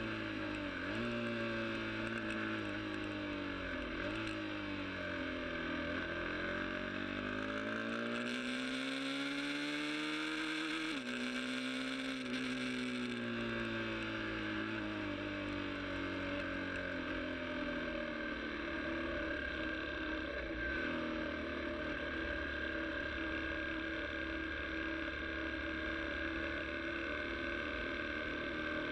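Motorcycle engine running under way, its pitch falling and climbing with the throttle, with several sudden drops in revs.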